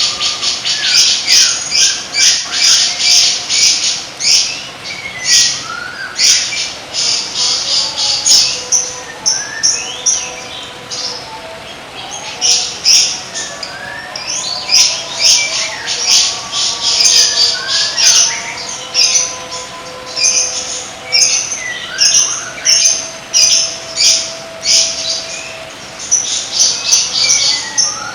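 Songbird song from a masteran recording: long bouts of rapid, harsh, chattering notes mixed with short rising whistles, broken by a couple of brief lulls.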